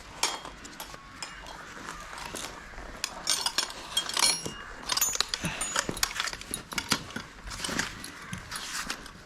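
Metal pieces clinking and rattling together in a run of light knocks and short ringing chinks, busiest in the middle few seconds.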